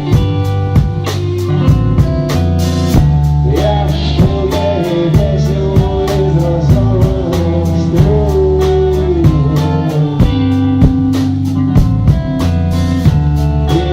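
Band music: guitar and drum kit playing with a steady beat, a melodic line bending in pitch over the top.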